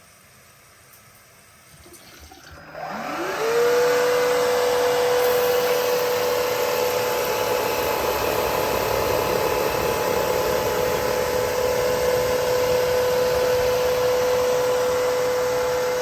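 A cordless wet-dry vacuum (Aspiron CA-022) switches on about two and a half seconds in. Its motor spins up with a rising whine, then runs at a steady pitch over a steady hiss of suction.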